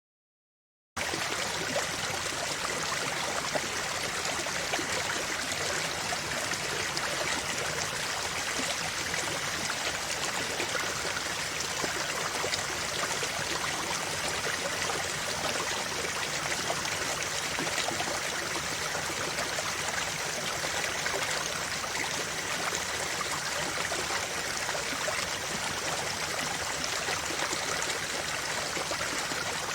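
River water flowing over stones, a steady rushing with trickling and gurgling, cutting in suddenly from silence about a second in.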